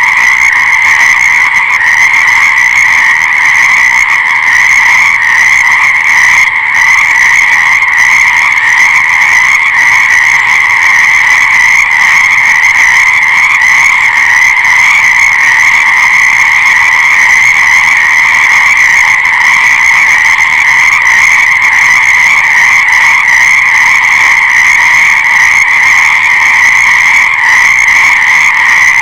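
A loud, dense chorus of many frogs calling at once, in a steady, unbroken wall of sound with no pauses.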